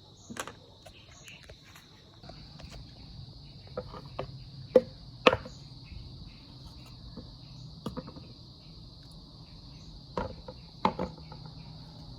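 Crickets chirring steadily in the background, with a handful of sharp clicks and knocks; the two loudest come close together about five seconds in.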